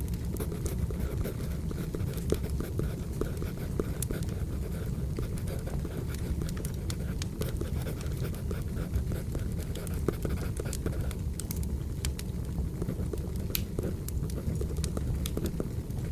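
Wood fire crackling, a steady low rumble with frequent sharp pops and snaps, overlaid with a pencil scratching on paper.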